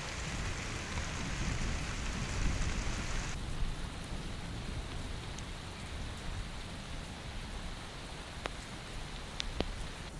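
Heavy rain falling steadily, with a low rumble underneath. The high hiss thins out abruptly about three seconds in, and a few sharp ticks of drops sound near the end.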